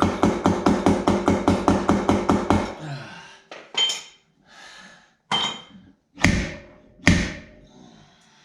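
Body hammer rapidly tapping steel sheet metal, about six blows a second with a ringing note, to work a dent while the panel is pulled out. The tapping stops a little under three seconds in and is followed by four separate, harder blows.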